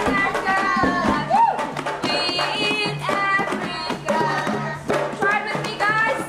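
A woman singing while beating a large African hand drum with her palms, the drum strokes keeping time under the song.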